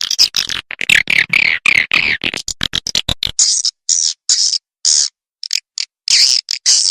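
Swiftlet lure recording: swiftlet twittering calls played as a call track to draw swiftlets into a bird house. Dense rapid high chirping for about three seconds, then short bursts of high twittering separated by silent gaps.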